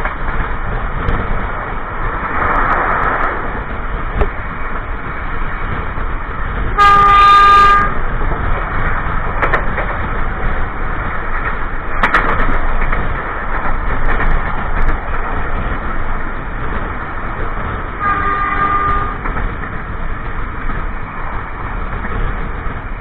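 Passenger train running, a steady rumble of wheels on rail heard from inside the carriage toilet. The locomotive's horn sounds loudly for about a second, and again more briefly and faintly later on.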